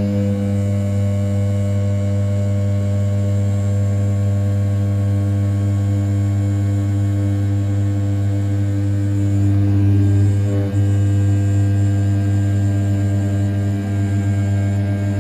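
500 W brushless spindle of an RZ420 desktop CNC mill running at 6000 rpm while an end mill rough-cuts the outer profile of A7075 aluminium, giving a steady, loud hum. The cut dips briefly about ten and a half seconds in.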